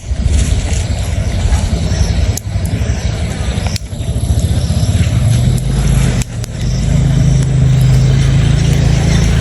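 An engine running with a loud, steady low rumble; its hum grows stronger and slightly higher about halfway through, with a few brief dips.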